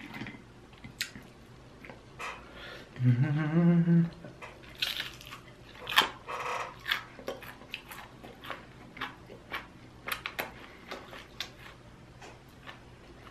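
Close-miked chewing of glazed chicken wings: wet mouth clicks and lip smacks at an irregular pace, with a sharper smack about six seconds in. A brief hummed voice sound comes about three seconds in.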